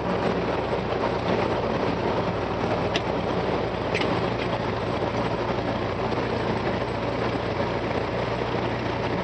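Light aircraft's piston engine running steadily, a low drone under a broad hiss, with a couple of faint clicks about three and four seconds in.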